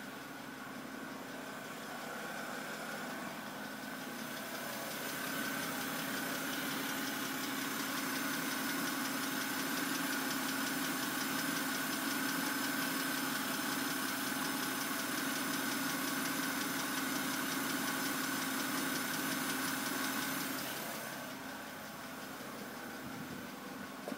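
2008 BMW 328i's N52 straight-six idling with a clicking from the top end, which the owner first took for the hydraulic lifters and which the dealer, after replacing them, now blames on the cylinder head. The steady engine sound grows louder about five seconds in and drops back a few seconds before the end.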